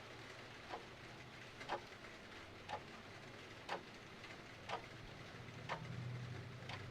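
Clock ticking steadily once a second over a continuous hiss of rain. A low rumble swells in near the end.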